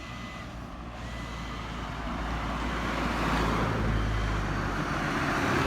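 A motor vehicle driving past on the road, its engine and tyre noise growing louder as it approaches, loudest about four seconds in, then easing slightly.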